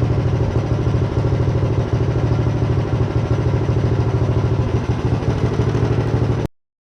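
Small single-cylinder engine of the kit-built minibike, a Tillotson 212, idling with an even, rapid beat. It cuts off suddenly near the end.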